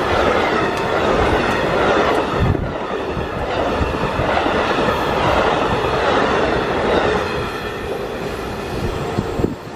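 Amtrak passenger train passing close by: steady loud rush of steel wheels on the rails with clickety-clack over the rail joints, easing off and dropping away near the end as the train goes by.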